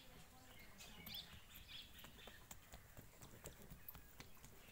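Near silence with a few faint, short bird chirps about a second apart and scattered faint ticks.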